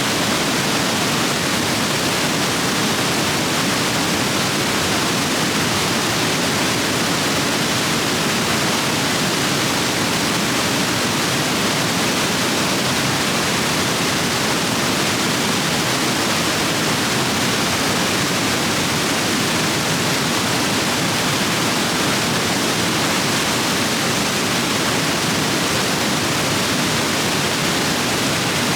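Rain-swollen rapids rushing over rocks: a loud, steady rush of white water with no change.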